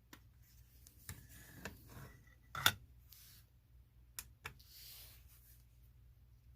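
Small parts and a little digital scale being handled on a bench: a few sharp clicks and knocks, the loudest about two and a half seconds in, with a brief rustle near the end.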